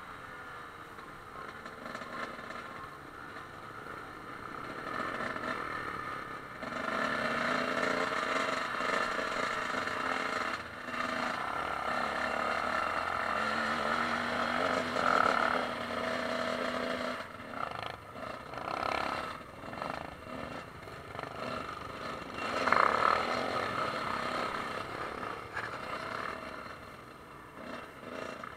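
Dirt bike engine heard from a camera riding on the bike, its pitch rising and falling with the throttle over a gravel track, with wind and road noise. It gets quieter near the end as the bike slows.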